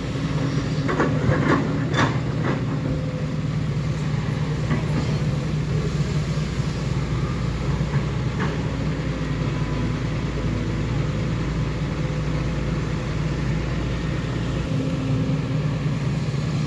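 Heavy diesel engine running steadily, with a few knocks and rattles about one to two seconds in.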